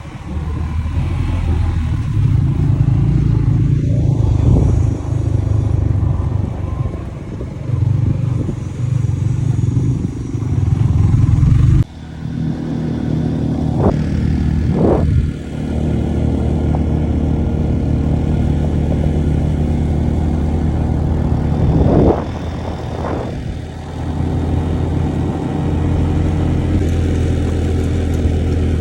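Motor vehicle engine running steadily on the move, with a sudden break about twelve seconds in and a few short sharp noises later on.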